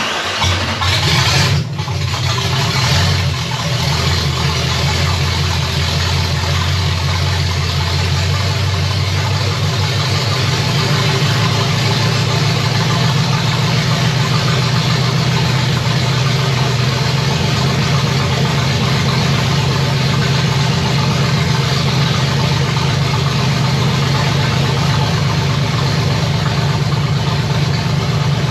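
Chevy 327 small-block V8 restarted warm: it catches suddenly, runs a little louder for about the first two seconds, then settles into a steady idle.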